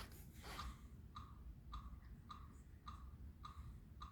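Faint, steady ticking made by a performer clicking their tongue, even clicks a little under two a second, imitating a clock.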